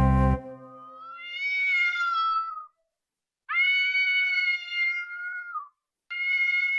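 A cat meowing: three long, drawn-out, high meows with short pauses between them, the last still going at the end. Strummed guitar music cuts off just before the first meow.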